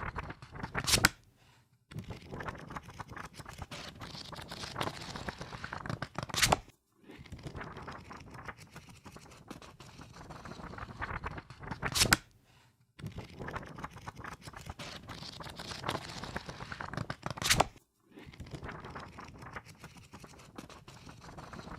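Pages of a book riffled rapidly, a dense flutter of paper flicks in runs of about five seconds, each run ending in a sharp snap, repeated about four times with short pauses between.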